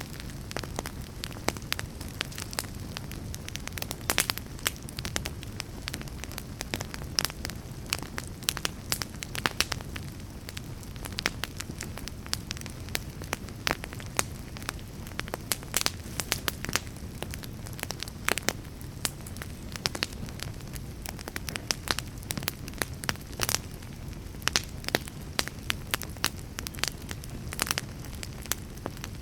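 Wood fire crackling: a steady low rumble under frequent irregular sharp pops and snaps.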